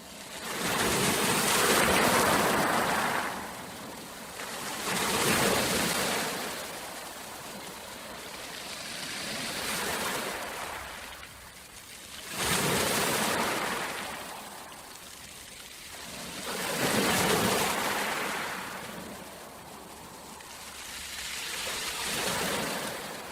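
Ocean waves breaking and washing on a shore, swelling and fading about six times, roughly every four to five seconds.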